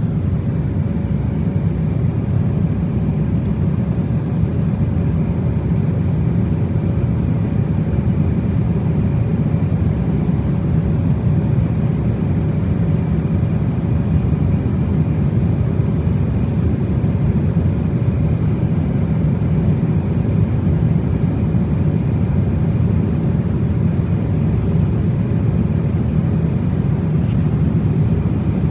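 Cabin noise inside an Airbus A350-1000 in cruise: a steady low roar of airflow and engines, with a faint steady hum running through it.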